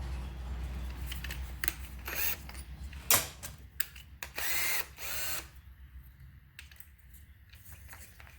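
Drilling and tool handling on an aluminum bracket: a low drill-motor hum that dies away about three seconds in, then clicks and clinks of metal parts and tools, with a short noisy burst of about a second near the middle.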